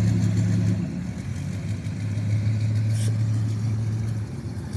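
Four-wheel-drive truck's engine running with a steady low rumble as it rolls slowly past.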